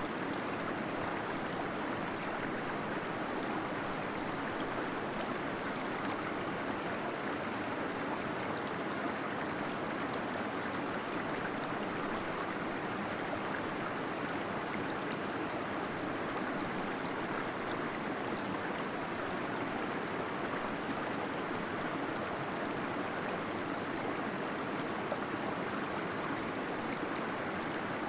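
Small waterfall splashing and gurgling steadily into a pool inside a cave.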